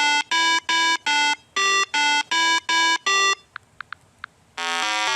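An electronic melody of about eight short, separate beeping notes. A few faint clicks follow, then a faster electronic tune begins near the end.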